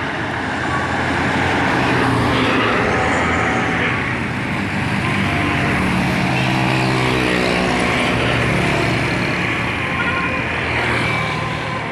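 Heavy road traffic on a highway: diesel truck engines and tyres going past. One engine's note slides down in pitch in the middle as it passes.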